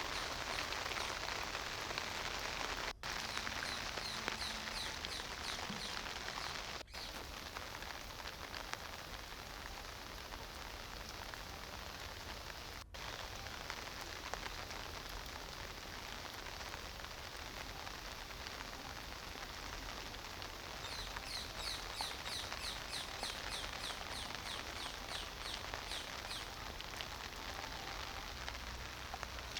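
Steady rain falling, an even hiss of drops. Some two-thirds of the way through, a rapid run of high chirps, about four a second, lasts several seconds.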